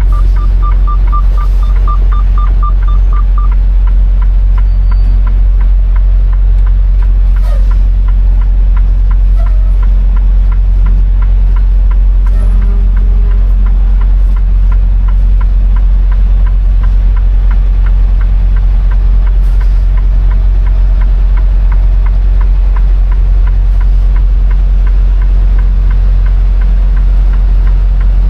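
Semi-truck diesel engine running steadily at low speed, a constant low rumble. A rapid high-pitched beeping sounds over the first few seconds, then stops.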